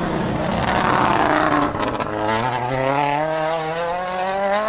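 A World Rally Car's 1.6-litre turbocharged four-cylinder engine at full attack on a rally stage. A loud rush of engine and tyres gives way to a brief dip about two seconds in, then the engine note climbs steadily as the car accelerates hard through the gear.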